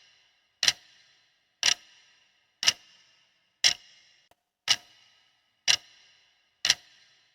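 Countdown-timer clock ticking, one sharp tick with a brief ring about every second, seven ticks in all.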